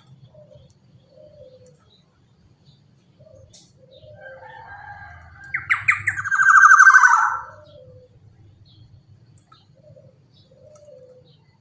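Black-naped oriole calling: one loud call of rapidly repeated notes lasting about two seconds midway, with soft, short, lower bird notes repeating before and after it.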